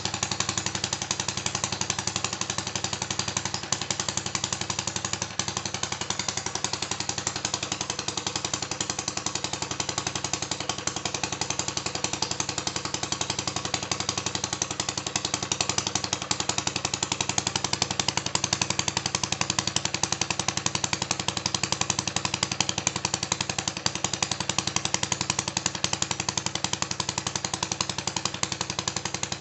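Small model four-stroke petrol engine, a scale stationary engine, running steadily with a rapid, even train of firing pops.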